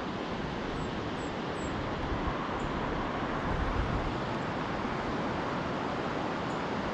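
Steady roar of Pacific surf mixed with road traffic, picked up by a GoPro's built-in microphone, swelling briefly with a deeper rumble about halfway through. A few faint high chirps come early on.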